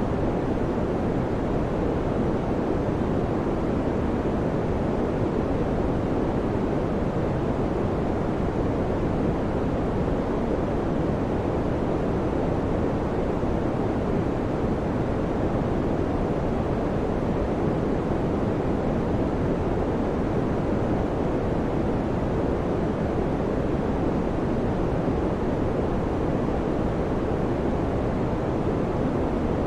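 Electric fan running steadily: an even, unchanging whoosh of moving air, deepest in the low and middle range, with no clicks or hum.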